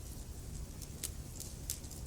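Wood fire burning in a fireplace: a steady low rumble of the flames with scattered sharp crackles and pops from the burning logs, a louder pop about a second in.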